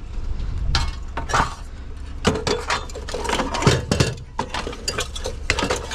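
Pieces of small scrap metal clinking and clanking as they are handled and dropped together, a string of separate knocks, some briefly ringing.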